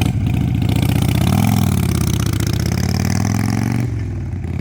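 A vehicle engine running just after starting, its pitch rising as it revs about a second in, then easing off a little near the end.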